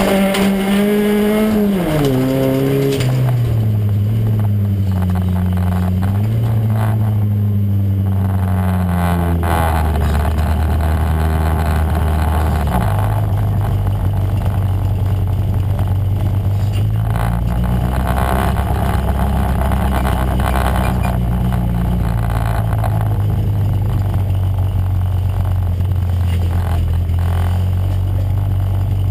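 Bilcross car's engine heard from inside the stripped cabin, revving up and down hard for the first few seconds, then easing to a lower, steadier note that drops again partway through as the car rolls along at low revs.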